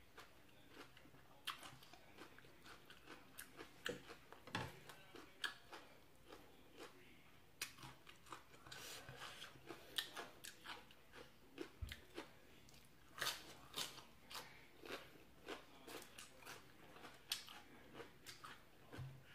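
Crunchy raw vegetables and pounded long-bean salad being bitten and chewed, in many irregular crisp crunches.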